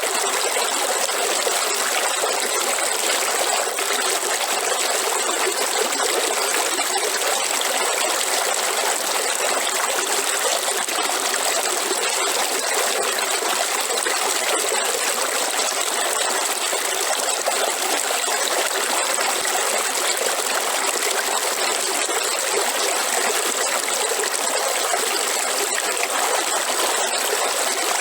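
River water flowing and trickling over rocks, a steady rushing at an even level with no change.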